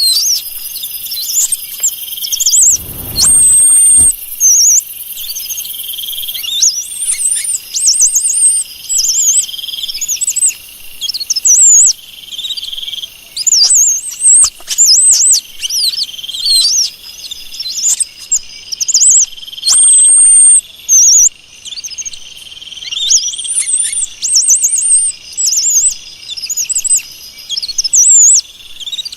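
A small songbird singing: quick runs of high, sliding whistles and chirps, with a steady high buzzing that comes and goes every couple of seconds beneath them.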